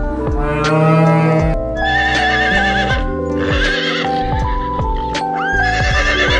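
A cow moos once in the first second and a half. Then a horse whinnies repeatedly in high, quavering calls. Background music plays throughout.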